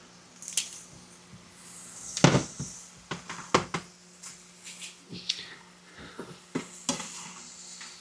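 A utensil knocking and scraping against a frying pan as vegetables are stirred: a string of sharp clicks and short scrapes, the loudest about two seconds in, over a faint steady hum.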